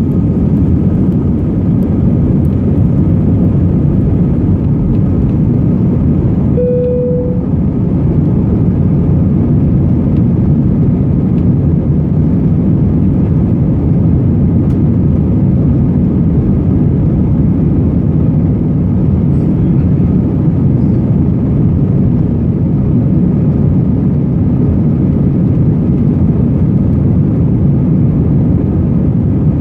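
Cabin noise inside an Airbus A321: a loud, steady low rumble of the engines and airflow. About a quarter of the way in a single short tone sounds over it, like a cabin chime.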